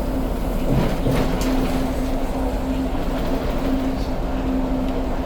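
Steady engine drone and road rumble of a city bus under way, heard from inside the cabin, with a constant low hum throughout.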